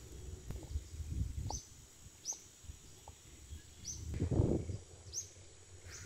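A bird repeating a short, high, falling chirp about once a second, over low rumbling and a louder rustle about four seconds in.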